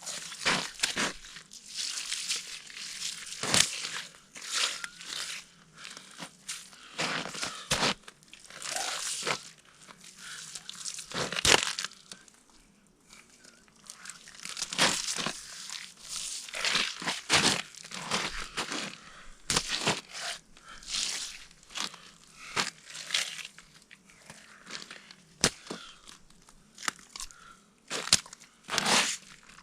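Irregular crunching and crinkling rustles with many sharp knocks: handling noise as the day's catch of pike is sorted and laid out.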